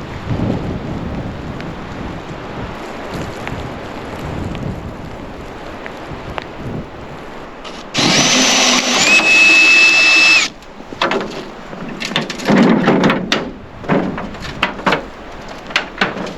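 A handheld power tool's motor runs for about two and a half seconds, its whine stepping up in pitch about a second in and stopping suddenly, followed by a series of sharp knocks. Steady wind noise fills the first half.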